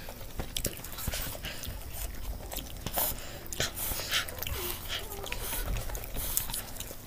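Close-up eating sounds: people chewing and biting into chicken drumsticks and noodles, with many short, sharp mouth clicks and smacks.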